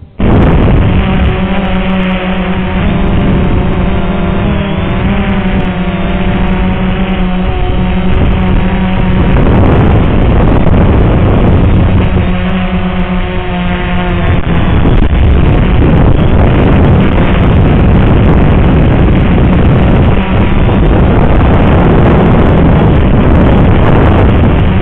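Walkera QR X380 quadcopter's motors and propellers running with a steady buzz, the pitch of the higher tones wavering as the motors adjust, under heavy wind noise on the microphone from strong gusty wind.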